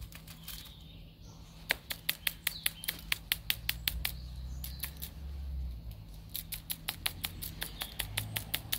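A small bird's ticking alarm call: two runs of sharp, evenly spaced ticks, several a second, the first starting about two seconds in and the second from about six seconds in.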